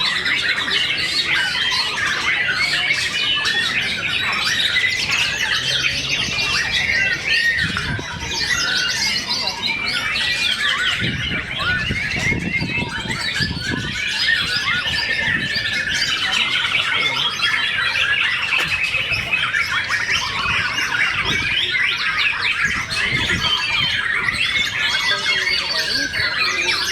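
Many caged songbirds singing and calling at once: a dense, unbroken tangle of rapid chirps, trills and squawks.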